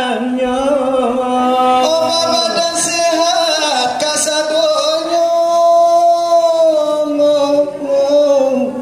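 A man singing selawat dulang, a Minangkabau devotional song, in a drawn-out, bending melodic line, with one long held note in the middle.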